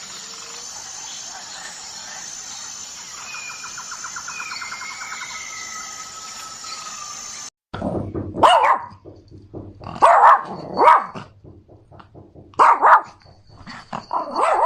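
Several seconds of steady background noise, then a cut to a series of short, loud animal calls, about five of them in quick succession.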